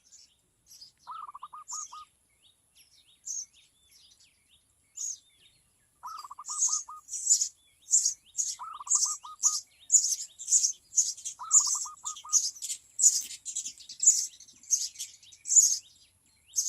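Small birds chirping: high, sharp chirps, sparse at first, then about two a second from roughly six seconds in. Four times a lower, short rippling trill of about five quick notes cuts in.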